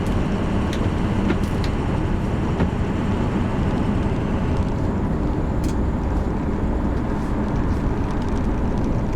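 2003 Ford F350 Super Duty's 6.0-litre Powerstroke turbo diesel V8 pulling the truck along, heard from inside the cab as a steady mix of engine and road noise.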